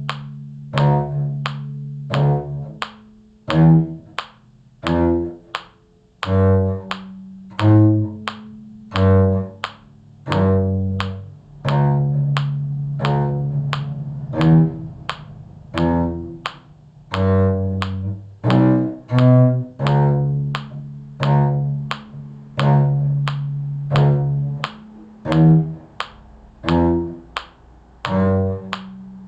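A cello plays the lowest part of a simple tune in C in long bowed notes, over a steady beat of short sharp-attack notes, about three every two seconds.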